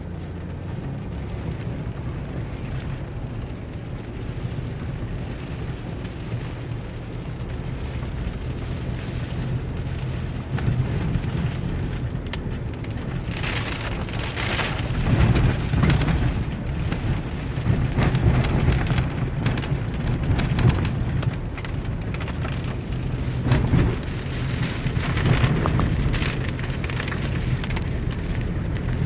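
Vehicle driving in the rain: a steady low rumble with a rushing hiss of rain and wet road over it. The hiss grows louder about halfway through and swells several times after that.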